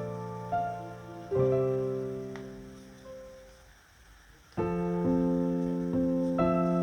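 Background piano music: slow, soft struck notes that ring and fade away almost to silence, then a new chord enters about four and a half seconds in.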